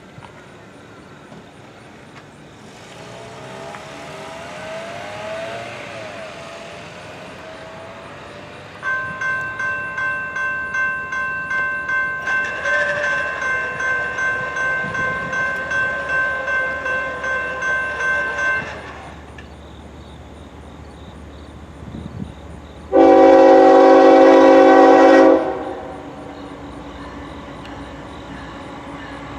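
A grade-crossing bell rings steadily at about two strokes a second for roughly ten seconds. Later, a Norfolk Southern GE ES44AC locomotive sounds one loud, long air-horn blast of about two and a half seconds as the train approaches. A rushing noise swells and fades earlier on, and a low steady hum remains after the horn.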